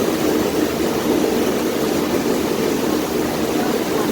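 A boat's engine running steadily, heard from the back of the boat close to the engine, as a constant loud drone.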